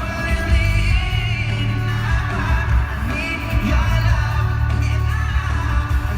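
Live pop-rock band playing loudly with singing over strong, steady bass, recorded from within the audience.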